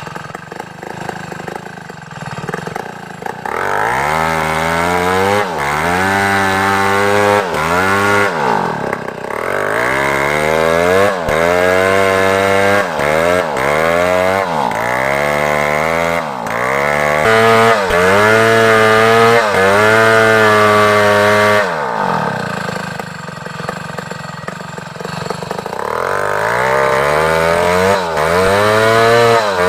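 Large two-stroke chainsaw cutting African-wood timber, its engine pitch rising and dropping again and again as the throttle is worked and the chain bogs into the cut. It runs lower and quieter for a few seconds near the start and again about two-thirds of the way through.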